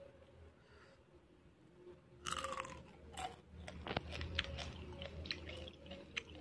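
Someone biting and chewing crunchy fried grasshoppers with their mouth close to the microphone. A run of sharp, crisp crunches begins about two seconds in.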